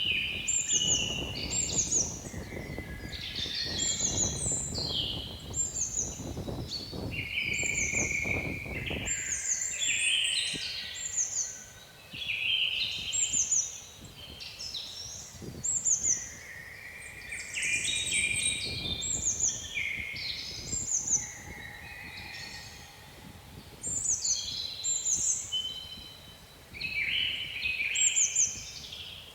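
Several songbirds singing and calling at once, a steady stream of overlapping chirps and short whistled phrases. Wind gusts rumble on the microphone through the first third and again briefly midway.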